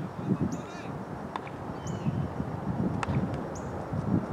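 A bird calling three times in short, high chirps about a second and a half apart, with a few faint sharp clicks between them.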